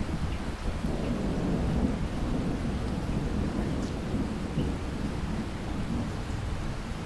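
Steady rainfall with a low, rolling rumble of distant thunder underneath.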